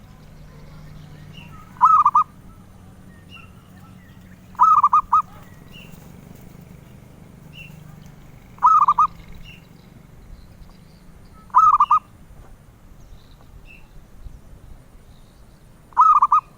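Zebra dove (perkutut) cooing: five short bursts of rapid staccato coos, each a few notes long, spaced a few seconds apart. Faint, higher single chirps come in between.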